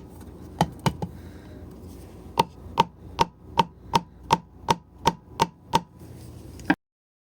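Repeated sharp taps on a piston being driven through a ring compressor into a GX200-clone cylinder bore, each with a brief metallic ring. A few come early, then about ten more at roughly three a second. The rings are catching, and the piston won't go in with this compressor alone. The sound cuts off suddenly near the end.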